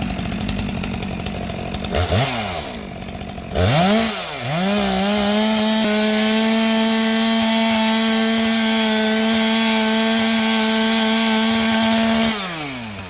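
Two-stroke chainsaw idling roughly, blipped twice, then run at full throttle at a steady high pitch for about eight seconds, cutting into downed jack pine, before dropping back toward idle near the end.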